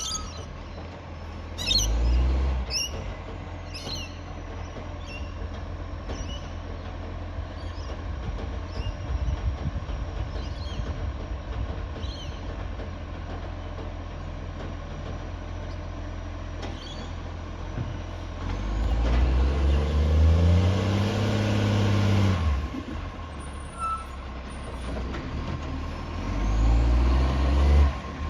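Recycling garbage truck's diesel engine idling, revving up for several seconds about two-thirds of the way through and cutting back sharply, then revving again near the end. A few sharp metallic clanks in the first few seconds.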